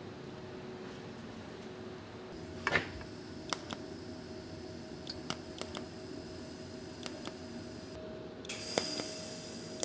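Scattered light metallic clicks and taps from steel exhaust parts being handled on the bench, over a steady workshop hum. A hiss starts near the end.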